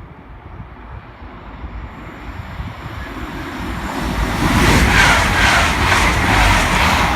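A train approaching and passing at speed: a rushing noise builds and becomes loud about halfway through, with the wheels beating regularly on the rails a couple of times a second.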